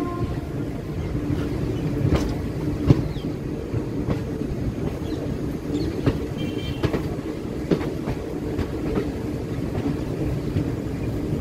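Passenger train running on the rails: a steady rumble of wheels with scattered clicks and knocks over the track, some of them sharp.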